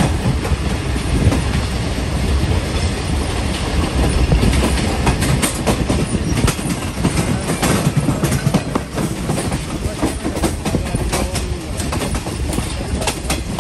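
Awam Express passenger train running on the track, its wheels clicking over rail joints over a steady low rumble.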